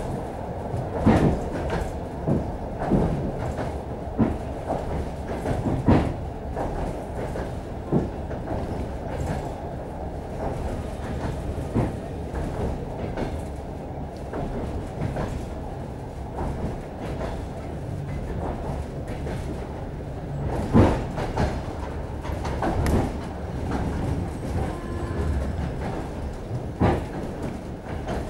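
A suburban passenger train running, heard from inside the carriage: a steady rumble with irregular clacks and knocks from the wheels and carriage.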